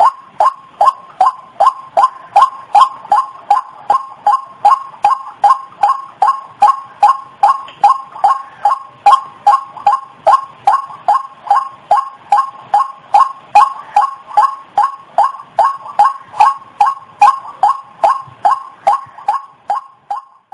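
White-breasted waterhen call used as a lure: one loud, short note repeated monotonously about three times a second.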